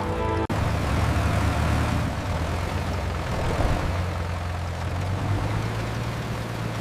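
Tractor engine running steadily: a low, even drone with a noisy rumble over it. It cuts out for an instant about half a second in.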